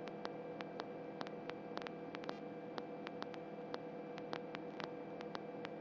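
Faint steady electrical hum and hiss with scattered irregular static clicks on the helicopter's intercom and radio audio line, with no one speaking.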